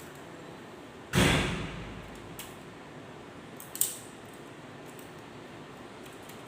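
A loud, hard knock about a second in that rings briefly, then a faint click and a sharper click a little before four seconds, from the manual typewriter being handled.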